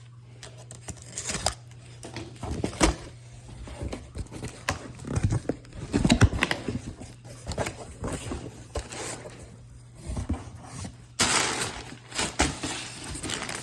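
Irregular handling noises from tool bags and their packaging being unpacked: scattered clicks, knocks and rustles, with a longer burst of rustling about eleven seconds in, over a steady low hum.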